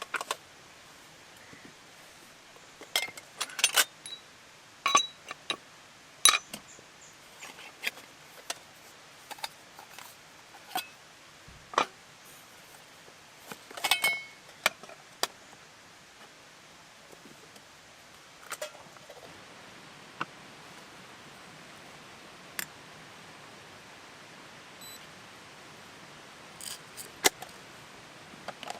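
Irregular clinks and taps of small metal and hard objects being handled, a few with a brief ring. They come thick for the first half, then thin out, with a last short cluster near the end.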